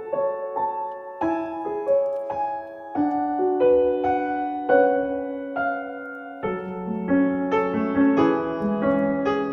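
Instrumental piano music: a slow melody of single notes, joined about six and a half seconds in by a fuller lower accompaniment.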